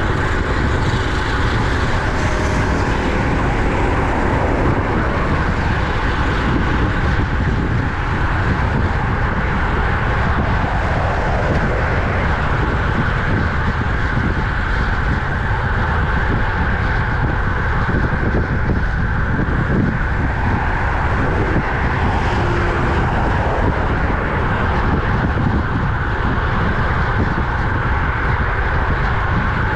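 Steady rush of wind on the microphone and road noise while riding a road bike along a highway, with motor traffic in the mix.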